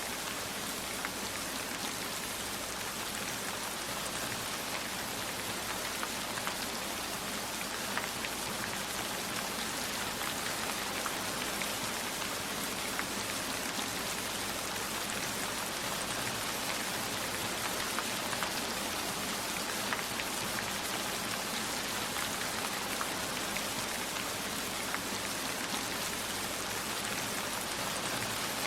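Steady heavy rainfall: an even hiss with scattered sharper ticks of individual drops.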